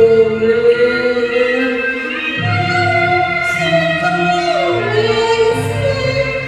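Cantonese opera singing with instrumental accompaniment: long held, wavering notes that slide between pitches, with a slow downward glide a little after the middle.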